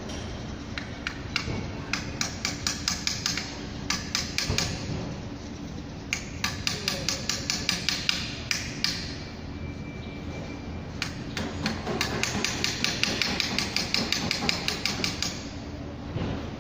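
Quick light metallic taps from a hand tool working on engine parts, about six or seven a second, in four runs with short pauses between, over a steady low hum.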